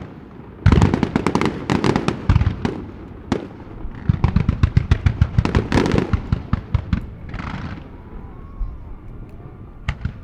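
Fireworks display: rapid volleys of aerial shell bursts, several bangs a second in two long runs, followed by a brief crackling burst and a couple of single bangs near the end.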